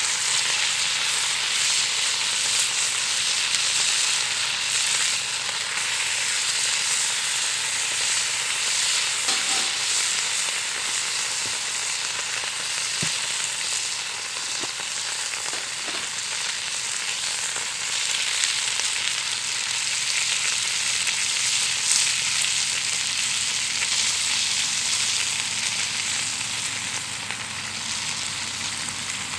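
Food frying in a pan, a steady sizzling hiss, with a few faint ticks around the middle.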